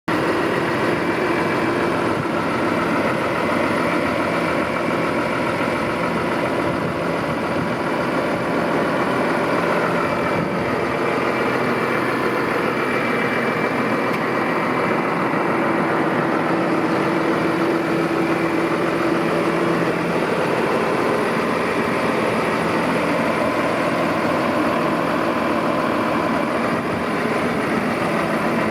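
New Holland T6.180 tractor's six-cylinder diesel engine idling steadily.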